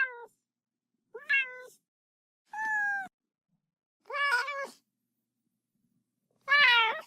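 Domestic cats meowing: a run of separate loud meows, each about half a second long, with silent gaps between them. The end of one meow is heard right at the start, then four more follow about a second or more apart.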